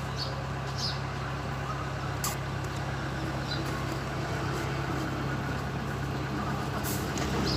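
A steady low mechanical hum, with a couple of short clicks over it.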